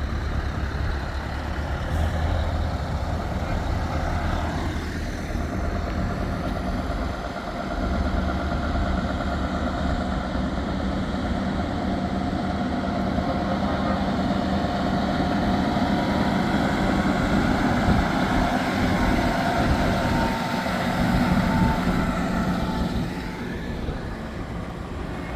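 Heavy truck engine running as trucks drive past. It is a steady deep rumble that builds to its loudest a few seconds before the end, then eases off.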